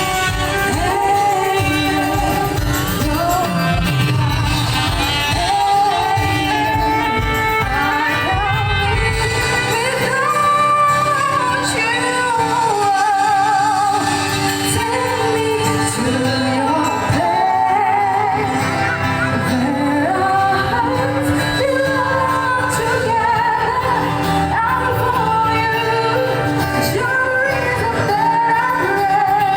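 A song: a singer's voice with vibrato over musical accompaniment.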